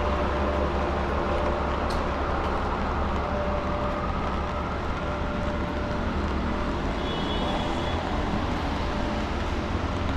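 Steady downtown street traffic noise: a continuous low rumble of vehicles under an even hiss. A short high beep sounds about seven seconds in.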